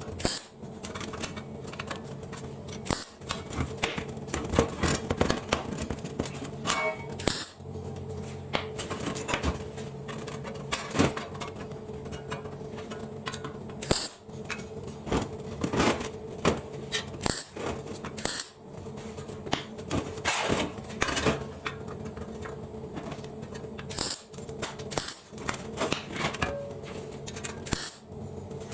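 Irregular clanks and taps of steel plate panels being handled and fitted together, over a steady machine hum, with the sound breaking off briefly a few times.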